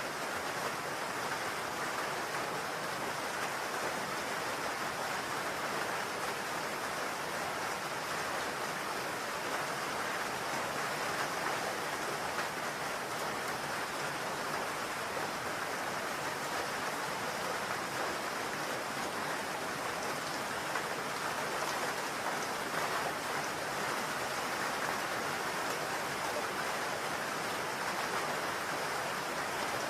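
Steady rain falling on a house roof: an even hiss of many drops that holds level without pauses.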